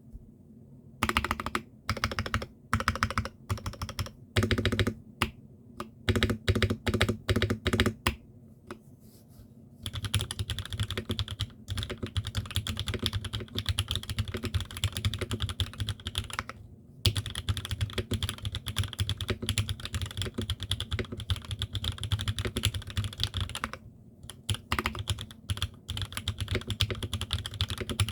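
Custom Transition 80% mechanical keyboard, top-mount with a carbon plate and no foam, with Cherry MX Black linear switches, being typed on. It opens with short clusters of separate keystrokes, then after a pause settles into fast continuous typing, broken twice by brief stops.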